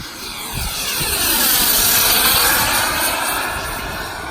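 Model-jet turbine engine of an RC airplane running at power as the plane passes by, swelling to its loudest about two seconds in and then fading.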